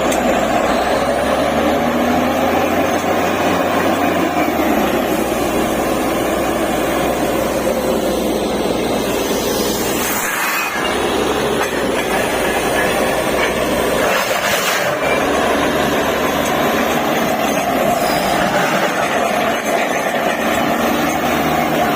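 DTH borewell drilling rig running with a loud, steady mechanical noise, with two brief sharp bursts about ten and fourteen seconds in.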